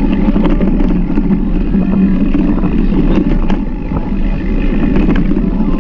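Mountain bike ridden over a rough trail: a steady low rumble of wind and tyre noise with scattered clicks and rattles.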